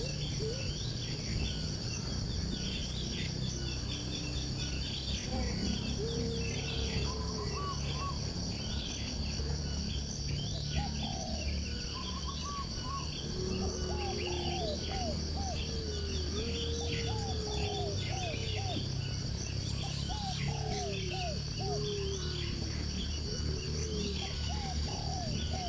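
Several birds calling: quick high chirps throughout, and lower whistled notes in short repeated series. Under them run a steady high-pitched insect drone and a low steady rumble.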